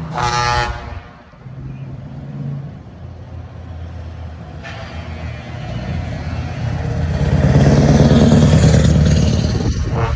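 A brief truck air-horn blast at the start, then a heavy truck's diesel engine pulling past, growing loudest around eight seconds in. Another horn sounds right at the end.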